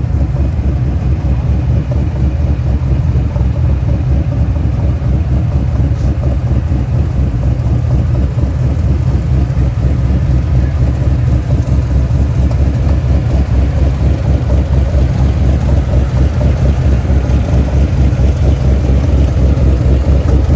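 A car engine idling nearby: a steady, loud low rumble with a fast, even pulse.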